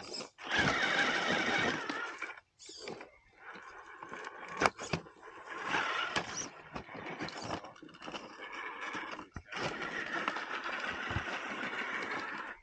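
RC rock crawler truck's electric motor and geared drivetrain whining under load, in several bursts of one to three seconds with short pauses between.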